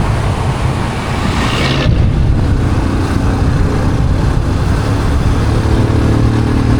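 Motorcycle engine running steadily while under way, with a hiss over it that drops away about two seconds in.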